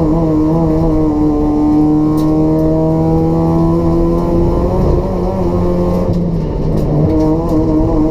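Race-prepared Toyota Etios 1.5-litre petrol engine with a free-flow exhaust running hard under load, its pitch climbing slowly for a few seconds, then dropping and breaking up briefly about six seconds in before it steadies again.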